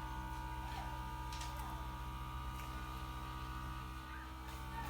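Barbie Star Light Adventure toy hover drone's small electric motors and propellers running steadily, a constant whine over a low hum that dips slightly about four seconds in.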